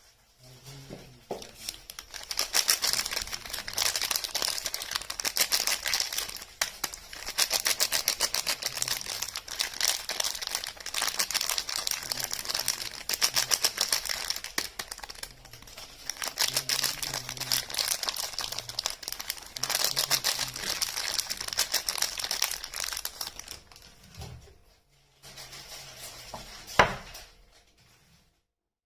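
Soap wrapper crinkling and tearing as a bar of soap is unwrapped by hand, a long run of dense rapid crackles with short pauses. Near the end there is softer handling and a single sharp knock.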